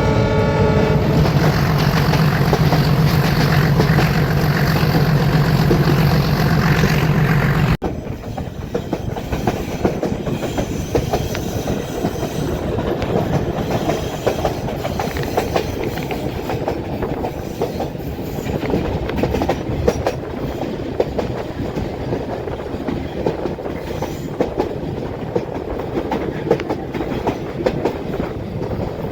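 Metre-gauge train hauled by a YDM-4 diesel locomotive, running. The horn ends about a second in, and a loud, low, pulsing engine drone follows. After an abrupt cut near the middle, a steadier clickety-clack rattle of the wheels over the rail joints takes over.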